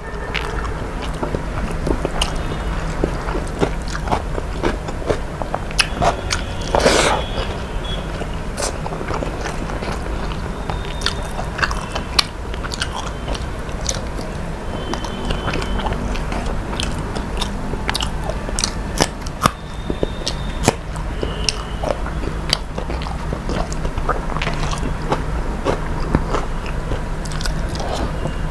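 A person eating: chewing and biting food, with many small mouth clicks and occasional crunches, over a steady low hum.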